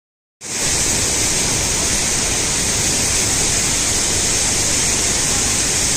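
Steady rushing noise of a large waterfall, cutting in abruptly about half a second in.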